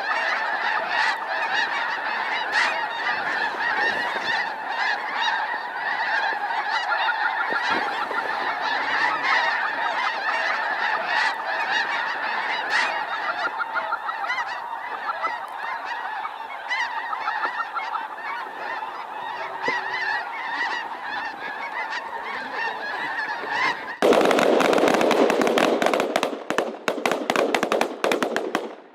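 A large flock of snow geese calling in a dense, continuous chorus of honks. About 24 seconds in, a sudden loud burst of rapid cracks breaks over the calling and runs on for several seconds.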